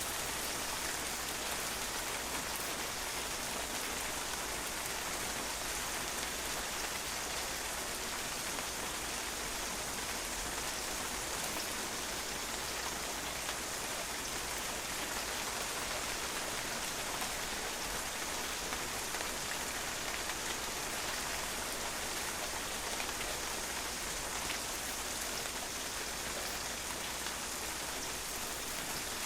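Steady rain falling and drops pattering on a patio, an even hiss with countless small ticks.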